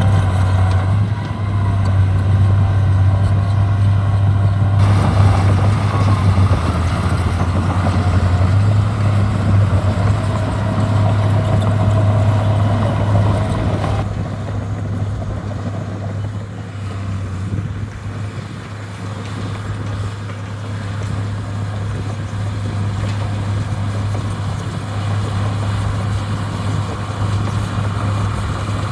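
Diesel engine of heavy landfill equipment running steadily with a deep drone. The sound shifts abruptly about five seconds in and again about halfway through.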